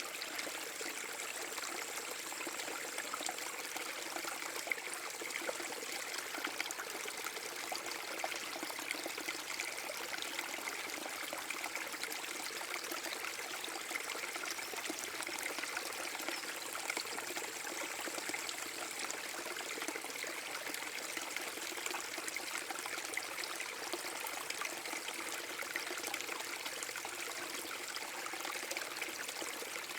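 Small forest brook waterfall: water pouring and trickling over rocks in a steady, even rush with no breaks.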